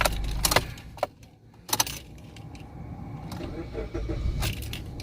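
Keys jingling and a few sharp clicks of handling at the car's steering column, over a low steady hum that drops away about a second in.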